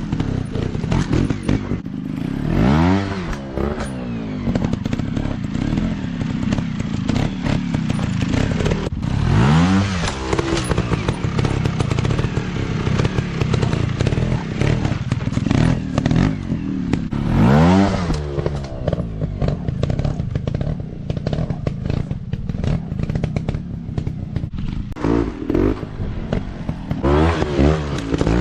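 Off-road dirt bike engines running continuously, revved hard several times so the pitch climbs sharply and drops back, with a few quick throttle blips near the end.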